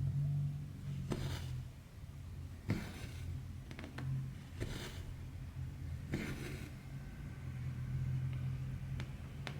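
Embroidery thread drawn through cross-stitch fabric: a few soft, hissy swishes, each about half a second long, with small sharp clicks of the needle between them. A steady low hum runs underneath.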